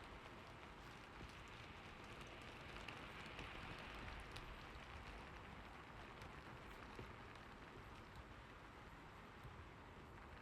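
Faint steady rain: an even hiss with occasional small ticks, swelling slightly a few seconds in.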